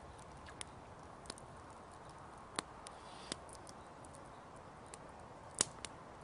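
Campfire of fallen branches crackling: sharp, irregular pops and snaps, about eight in all, the loudest near the end, over a faint steady hiss.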